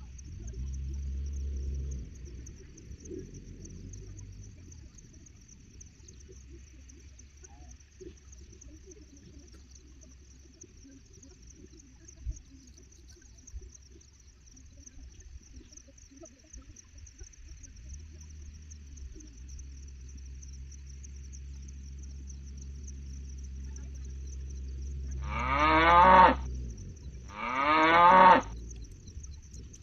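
Charolais-cross cattle mooing: two loud moos near the end, about a second apart, over a steady high insect buzz and a low rumble.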